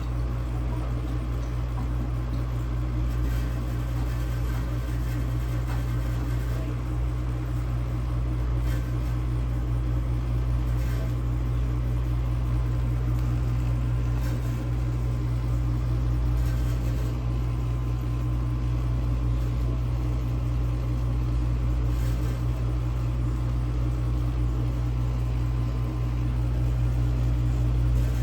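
Vintage dishwasher running, its pump motor humming steadily under a haze of wash water in the tub. The owner suspects the pump is restricted, since the water no longer hits the tub at full force.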